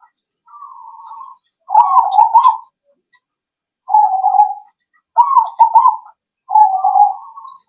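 Zebra dove (perkutut) cooing. A faint phrase is followed by four loud ones, each a rapid, bubbling run of coo notes about a second long, with a short gap between phrases.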